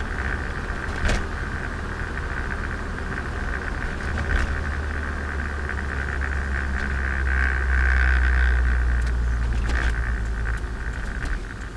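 Turbocharged Nissan Micra engine and exhaust heard from on board while driving, a freshly rebuilt engine being run in. The steady drone grows louder for a couple of seconds past the middle, then eases off near the end, with a few sharp ticks along the way.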